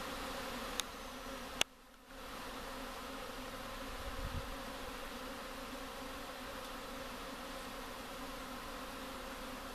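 Honey bees buzzing in a dense, steady hum as a mass of them flies out around a top-bar hive, a flight the beekeeper takes for a colony that may be about to swarm. A sharp click about a second and a half in, after which the hum briefly drops away for half a second.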